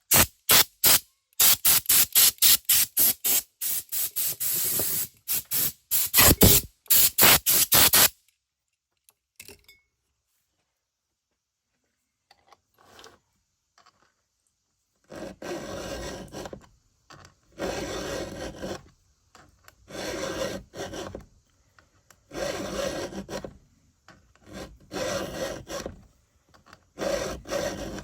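Hand file strokes across a chainsaw chain's cutting teeth during sharpening: a quick run of short, sharp strokes for about eight seconds, a pause, then slower, longer strokes about every two and a half seconds.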